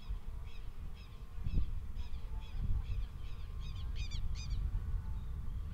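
A bird calling over and over, about two to three short, down-slurred calls a second, growing louder and then stopping a little after four seconds in. A steady low rumble runs underneath, with one dull thump.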